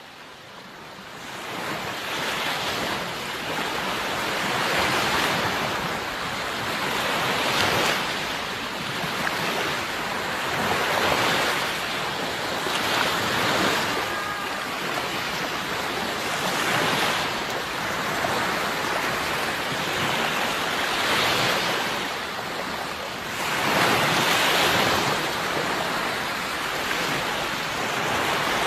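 Sea waves breaking and washing in, a surge every three or four seconds. The sound fades in over the first couple of seconds.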